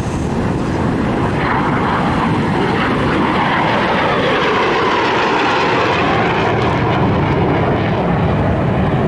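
Airplane engine passing by, with its pitch dropping as it goes past.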